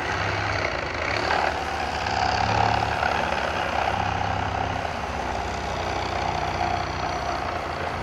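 Demolition excavator's diesel engine running steadily, a little louder around two to three seconds in.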